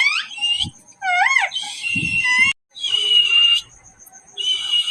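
Pet parrot calling in a string of shrill squawks and whistles, some sliding up and down in pitch and some held on one rasping note, with two short pauses.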